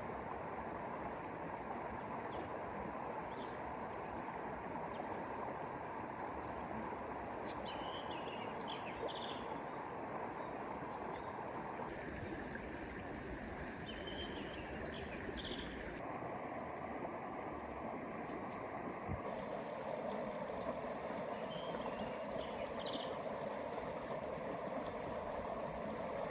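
A creek flowing with a steady rush of water, its sound shifting abruptly a few times, while small birds chirp now and then above it.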